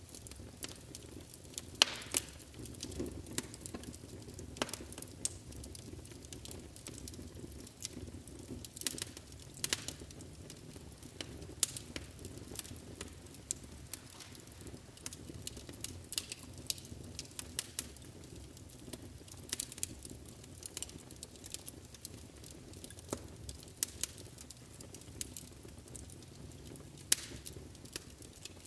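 Wood fire burning in a fireplace, crackling with frequent irregular sharp pops and snaps over a low, steady rumble of flames; the loudest pops come about two seconds in and near the end.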